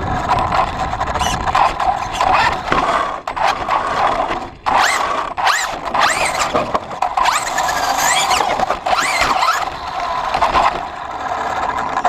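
Electric motor and gears of a hobby RC truck whining, the pitch rising and falling again and again as it speeds up and slows down, over a rough hiss of tyres scrabbling on the ground.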